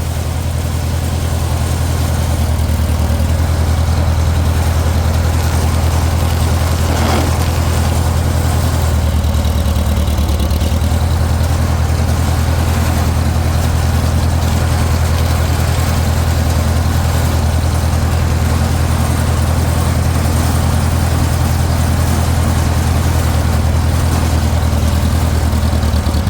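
Farmall 400 tractor's four-cylinder gasoline engine running steadily as the tractor is driven along. The low engine note builds slightly over the first few seconds, then holds even.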